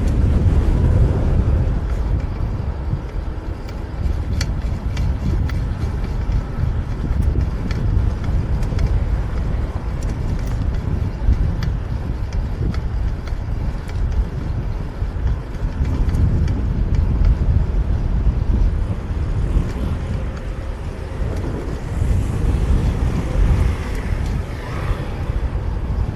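Street traffic and a steady low rumble of wind and road noise on a bike-mounted camera's microphone while riding through city streets.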